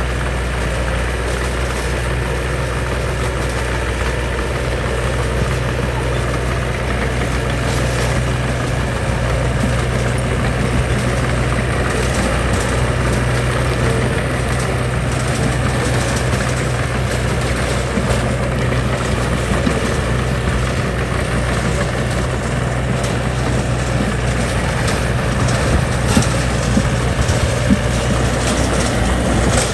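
Heavy construction machine's diesel engine running steadily at a low, even pitch, with a few sharp knocks near the end.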